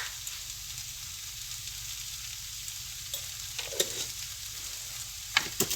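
Onion-tomato masala sizzling steadily in oil in a pan, with a few short knocks of a spoon against the pan: at the start, about two thirds of the way in, and near the end.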